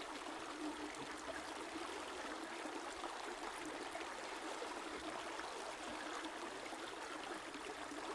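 Steady flowing river water, a continuous rushing and babbling with no pauses.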